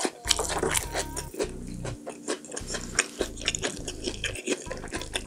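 A person chewing a mouthful of food close to the microphone: irregular wet mouth clicks and crunches, over soft background music.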